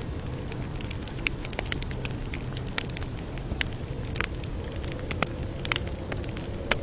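Campfire crackling: irregular sharp snaps and pops over a steady low rumble of the burning fire, with one louder snap near the end.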